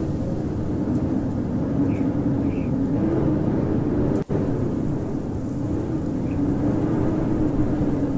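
Howling blizzard wind: a steady, loud rush with a low moaning tone, broken by a split-second dropout a little after four seconds in.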